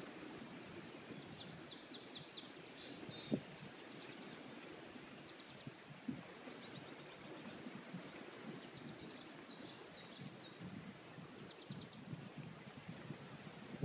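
Small birds chirping in quick runs of short high notes, repeated several times, over a faint low rustling. A single sharp knock sounds about three seconds in.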